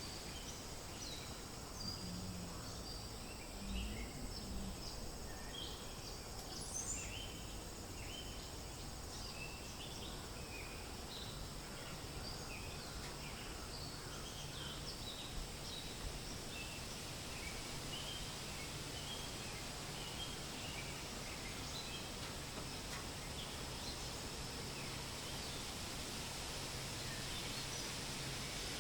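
Steady wind rustling through forest leaves, with many small birds chirping in short calls, thick in the first half and thinning toward the end.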